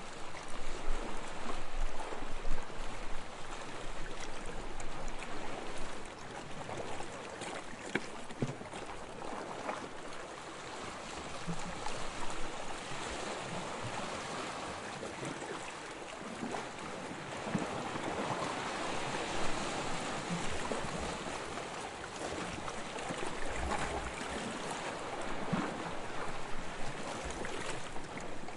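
Small waves lapping and washing up on a sandy shore, the water swelling and easing in slow surges with small splashes and fizzing; the wash is loudest in the first few seconds.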